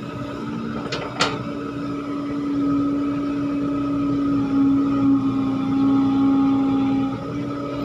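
Diesel engine of heavy earthmoving machinery running steadily, getting louder for a few seconds mid-way and easing back near the end, with two sharp knocks about a second in.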